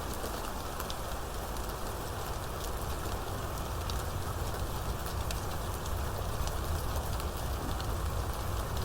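Steady rainstorm: rain falling evenly, with many individual drops ticking sharply over the hiss, and a steady low rumble underneath.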